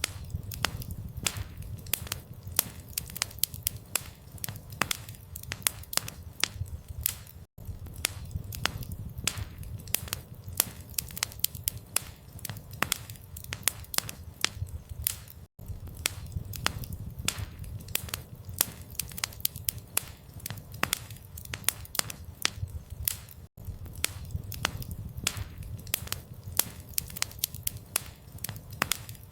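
Campfire crackling and popping with sharp irregular snaps over a low, steady rumble of burning wood. The same stretch of about eight seconds repeats, each time broken by a brief dropout.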